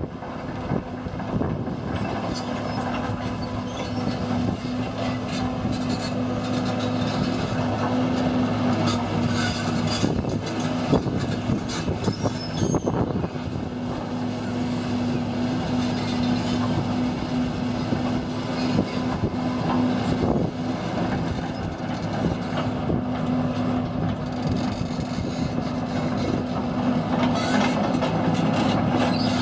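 John Deere 200 CLC hydraulic excavator running with a steady engine tone, with occasional knocks and clanks.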